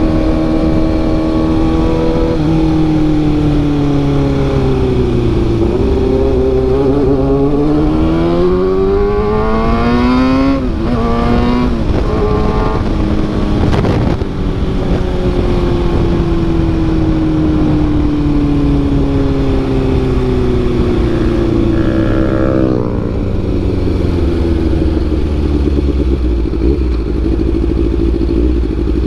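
Kawasaki ZX-6R inline-four engine running through an SC Project CRT carbon exhaust, pulling up through the revs with a sudden drop and rise about ten seconds in like a gear change, then falling off slowly for several seconds and settling to a low steady run near the end. The exhaust is loud enough to make the ears ring.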